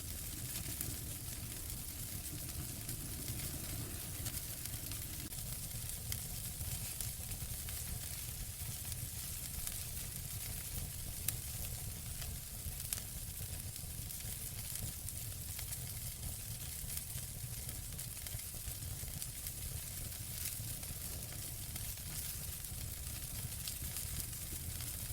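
Wood fire in a fireplace crackling steadily over a soft hiss and low rumble, with frequent small snaps and two sharper pops about halfway through.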